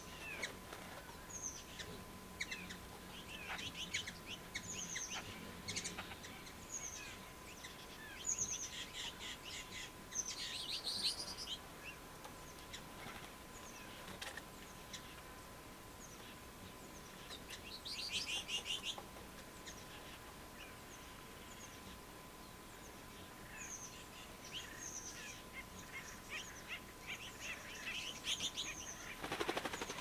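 Backyard birds calling and chirping: many short high calls throughout, with fast chattering runs about a third of the way in and again past halfway. Near the end comes a brief flutter of wings as a bird lands.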